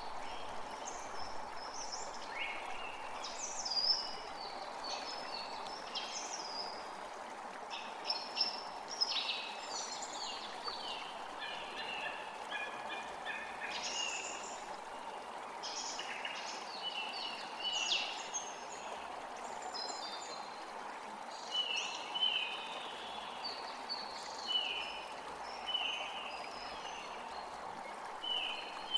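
Several wild birds singing and calling over a steady background rush. In the last third one bird repeats a short call about every second and a half.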